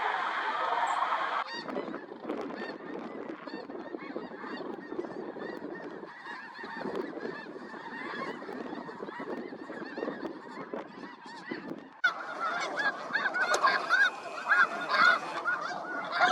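A large flock of geese calling together in a dense, continuous chorus of overlapping honks. The chorus changes abruptly about a second and a half in, then grows louder and clearer, with individual honks standing out, near the end.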